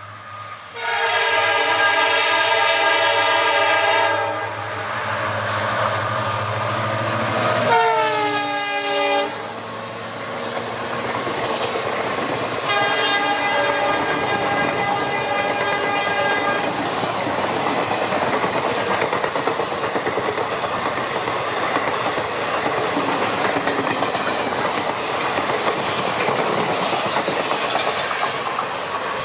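EMD WDP4 diesel-electric locomotive sounding its horn as it approaches: a long steady blast, then a second blast about 8 s in whose pitch drops sharply as the locomotive passes, then a fainter, lower blast as it runs away. The passenger coaches then rattle past with clickety-clack over the rail joints.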